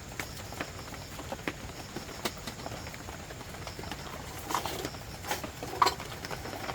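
Irregular light knocks and taps, a few a second, with a handful of louder knocks in the second half, over a steady background hiss.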